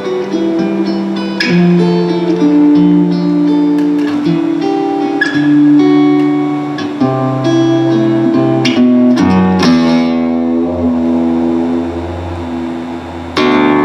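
Guitar music, plucked and strummed, with held notes shifting between chords. A quick run of notes comes about nine seconds in, and a loud struck chord comes near the end.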